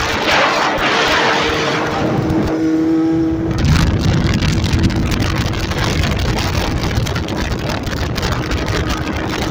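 Motorcycle engine running on the move, with wind rushing over the microphone. About three and a half seconds in, a louder, deeper engine rumble sets in and holds.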